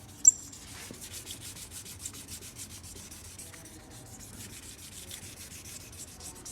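Wet sanding of a plastic headlight lens with 2000-grit sandpaper: a faint, steady scratchy rubbing in rapid, even strokes, scuffing the foggy, oxidised surface. A single sharp click sounds just after the start.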